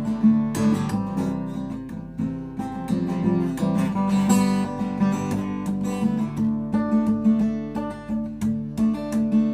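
Acoustic guitar being strummed, chords ringing under a steady run of strokes.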